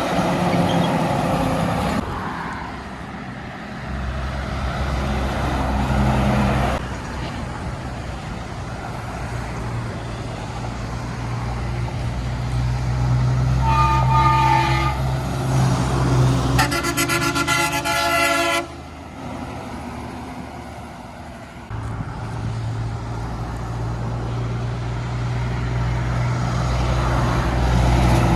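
Heavy trucks going by with their diesel engines running, and a truck horn sounding twice near the middle: a short toot, then a longer blast lasting about two seconds.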